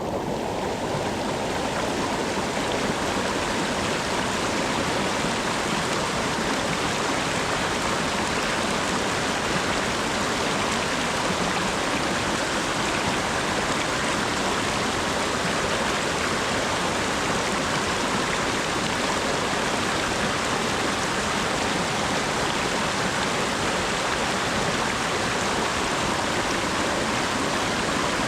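Steady rain falling, an even rushing hiss that does not let up.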